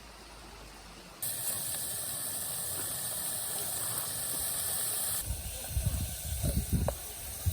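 A steady hiss starts abruptly about a second in and cuts off about four seconds later, followed by irregular low rumbling thumps.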